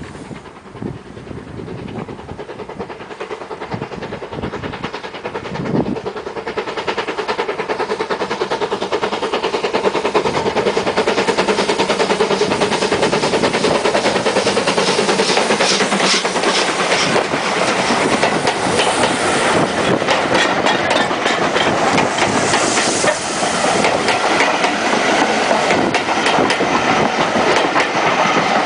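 Ivatt class 2 2-6-0 steam locomotive working its train uphill, growing louder over the first ten seconds as it draws near, then staying loud with a rapid, dense clatter.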